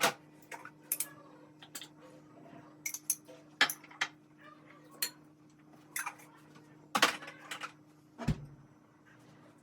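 Dishes and utensils being handled: scattered clinks and knocks every second or so, with one deeper thud about eight seconds in, over a faint steady low hum.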